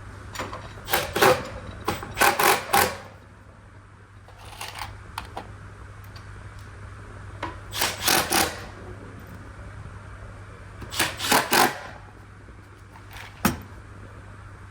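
Short bursts of rapid, sharp mechanical clicking every few seconds, ending with a single sharp click, over a steady low hum.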